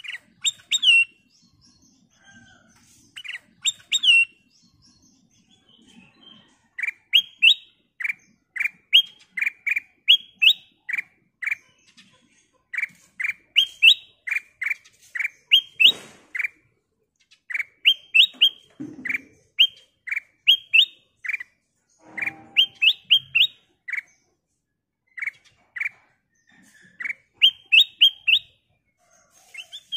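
Black-crested bulbul (kutilang emas) calling and singing: runs of short, bright, clear notes repeated in quick succession, with brief pauses between phrases. A few faint low knocks come in the background.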